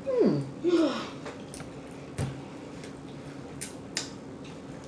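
Two short falling vocal sounds in the first second, then a person chewing chicken wings with scattered faint mouth clicks and smacks, over a faint steady hum.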